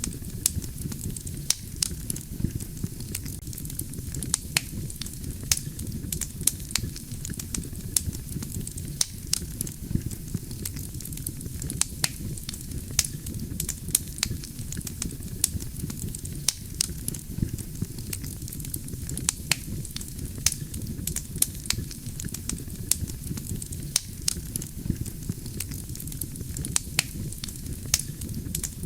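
Wood campfire burning steadily: a low rumble of flame with frequent sharp crackles and pops from the burning logs, irregular and several a second.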